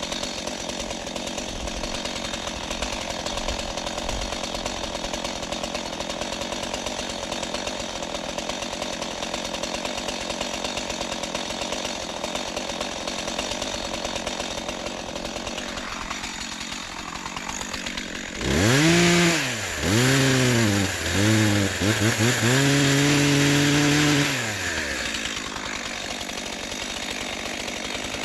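Two-stroke chainsaw idling steadily. About eighteen seconds in it is revved up and down a few times, then held at full throttle for several seconds, cutting into the tree trunk, before dropping back to idle.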